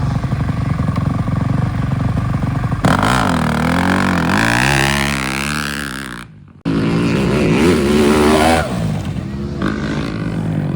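Dirt bike engines running and revving, their pitch rising and falling. The sound changes abruptly about three seconds in and breaks off briefly about six seconds in.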